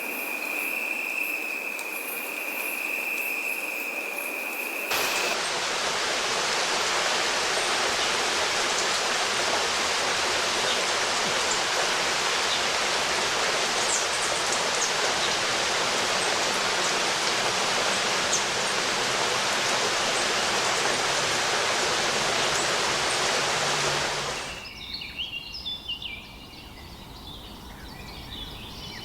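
A steady, even insect trill at first, then, cut in abruptly about five seconds in, loud rushing water for about twenty seconds. Near the end the water stops suddenly and quieter bird chirps follow.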